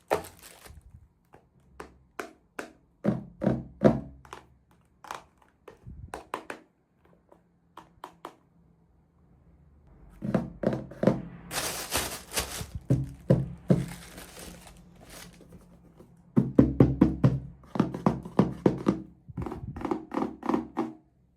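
Small plastic pieces and packaging tapping, clicking and knocking as miniature toys are unpacked and handled, in irregular runs of quick taps that come thickest in two bursts in the second half.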